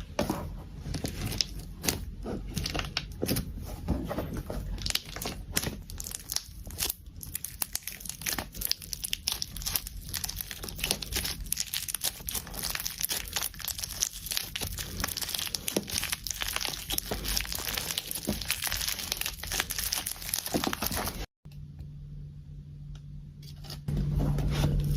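Slime being squeezed, stretched and pressed by hand, giving dense, rapid crackling and popping as air pockets burst. The crackling stops abruptly near the end, followed by a quieter stretch and then a steady low hum.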